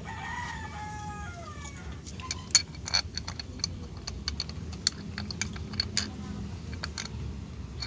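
A rooster crows once in the first second and a half, a call that falls in pitch. After that comes a run of sharp, irregular clicks and taps, several a second and loud at times, over a steady low hum.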